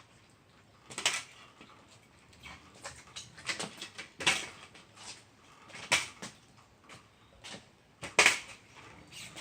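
Kick scooter clattering against pavement during trick attempts: a series of sharp knocks and clacks, the loudest about six and eight seconds in.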